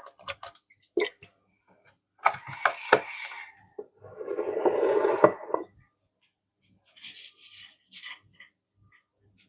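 Household handling sounds: scattered clicks and knocks, then two rushing noises about a second long each, the second lower and the loudest.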